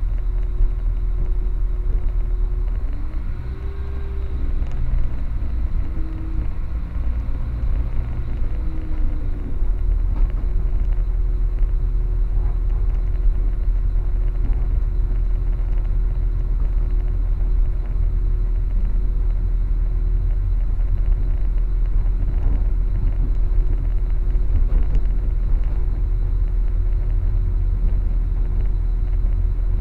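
Passenger train running, heard from inside the carriage: a steady low rumble of wheels on the track with a constant hum, and a few brief wavering tones a few seconds in.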